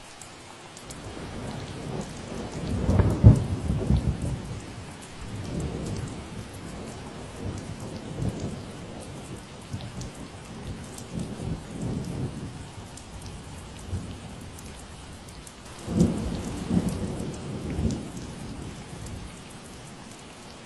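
Steady rain with a long roll of thunder rumbling underneath, loudest about three seconds in and swelling again near the end.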